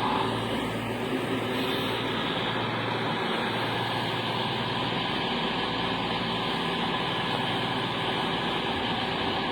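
Class 220 Voyager diesel multiple unit idling at the platform: the steady hum of its underfloor Cummins diesel engines, holding one even pitch.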